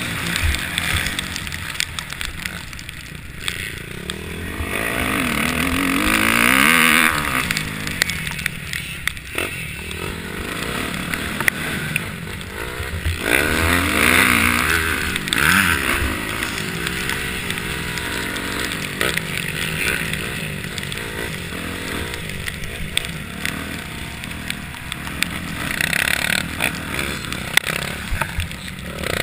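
Motocross dirt bikes revving and passing on the track, engine pitch rising and falling as they shift and go by. The loudest passes come about six and fourteen seconds in.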